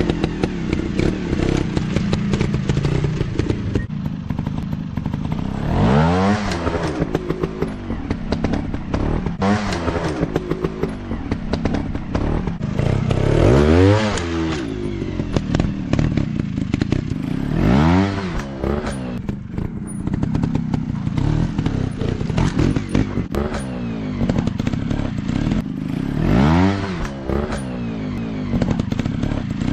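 Off-road motorcycle engines running, revved up and down sharply several times, once every few seconds, with clattering and scraping in between.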